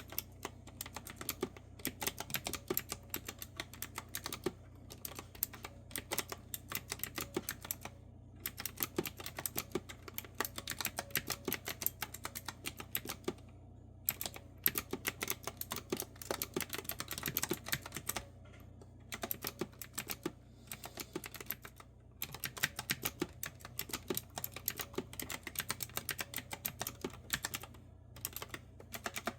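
Typing on a clicky retro-style keyboard with round keycaps: quick runs of crisp keystrokes broken by brief pauses every few seconds.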